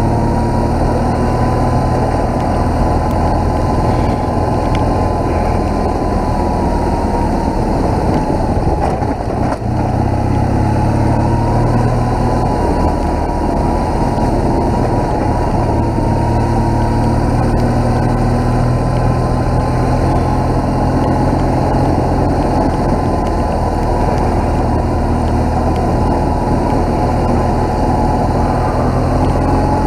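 BMW R1200GS boxer-twin engine running steadily as the motorcycle rides along, its pitch drifting a little, with a brief dip in level about nine and a half seconds in.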